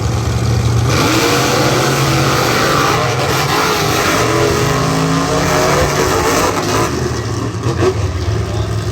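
Monster truck engines revving hard, the pitch repeatedly climbing and falling. The sound swells about a second in.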